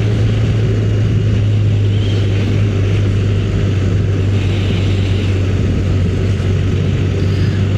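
Motorcycle engine running at a steady cruising speed, a constant low drone, with wind and road noise.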